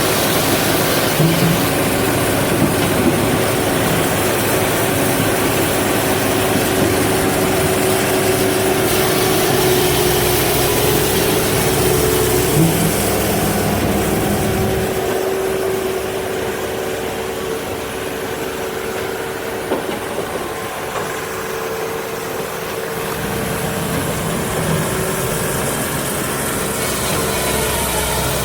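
Japa 435 firewood processor running on its Kubota diesel engine: a steady engine drone with a constant hum through it, its low end easing for several seconds past the middle.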